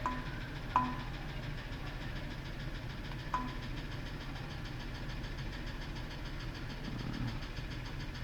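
Ford F-150 gas engine idling with a rhythmic ticking knock, which the mechanic says almost sounds like valve train, along with a misfire. Three short electronic beeps come at the start, just under a second in, and about three seconds in.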